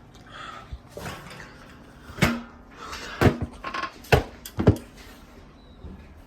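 A few sharp knocks and clatters of hard objects being handled, the loudest near the end.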